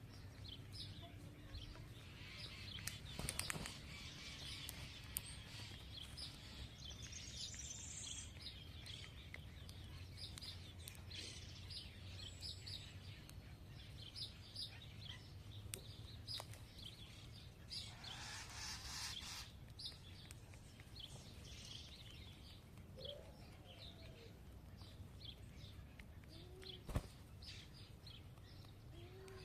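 Small birds chirping repeatedly in short, quick notes while feeding, with a brief rustle about two-thirds of the way through and a couple of sharp clicks.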